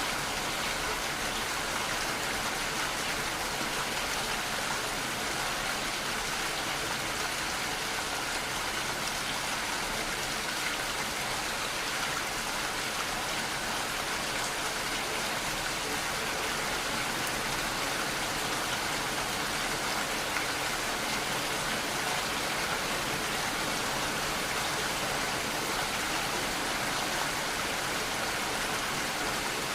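Steady, continuous rainfall: an even hiss of falling rain with raindrops on surfaces, no thunder.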